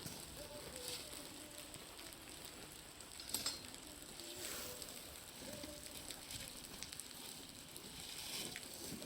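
Meltwater dripping and splashing off a building's roof together with a bonfire, making an irregular patter of small ticks that sounds like fire crackling, with one sharper click about three and a half seconds in.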